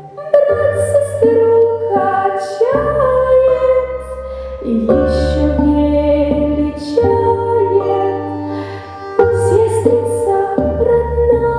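A female voice singing a Russian folk song in a slow, lullaby-like melody, with wavering held notes, over steady instrumental accompaniment.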